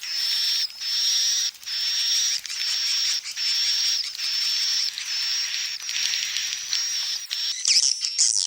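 Swiftlet calls played as a lure: a series of raspy calls, each lasting most of a second and coming about once a second, giving way near the end to quick up-and-down twittering chirps.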